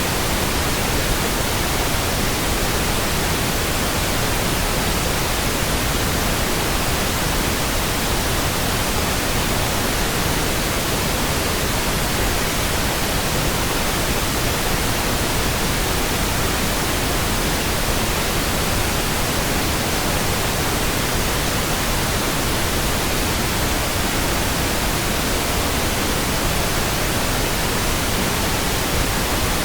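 Steady synthetic pink noise: an even, unchanging hiss spread across the whole range, with no other sounds.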